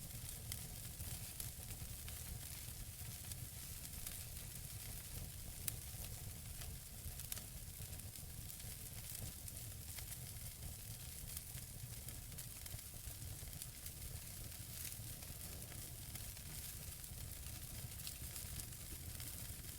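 Natural wood fire burning in a fireplace, crackling and hissing with frequent small pops of the burning logs. One louder pop comes about six seconds in and another just after seven, over a low steady rumble.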